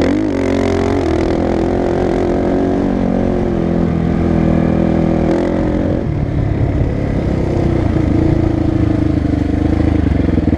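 Motocross bike engine running hard, revving up and down with the throttle. The pitch drops about six seconds in as the revs fall.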